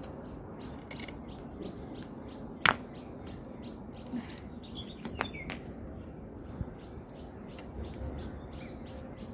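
Small birds calling with a rapid series of short, high chirps, about three a second, over a steady low background. A single sharp knock sounds about a third of the way in, with a few fainter clicks later.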